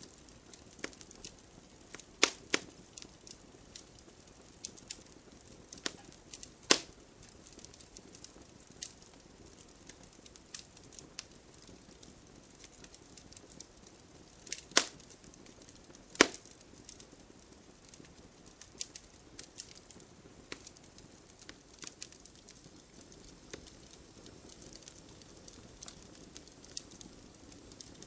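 Wood fire crackling in a fireplace: scattered sharp pops and snaps over a low hiss, with a few louder cracks about 2, 7, 15 and 16 seconds in.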